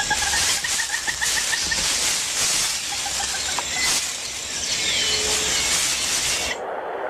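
Amazon rainforest ambience: a dense, steady high hiss with bird calls over it, including a quick run of short repeated notes in the first two seconds and a falling whistle about five seconds in. The hiss cuts off abruptly near the end.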